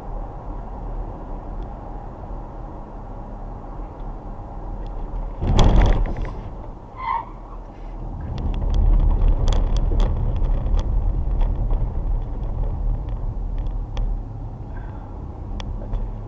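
Car on the move, heard from the cabin: steady road and engine rumble. A loud rushing burst comes about five and a half seconds in, then a short high tone about a second later, after which the low rumble grows heavier with scattered clicks.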